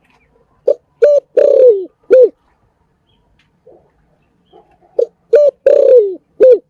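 Spotted dove cooing: two phrases of four low coos, about four seconds apart. Each phrase runs short coo, short coo, a longer coo falling in pitch, then a short closing coo.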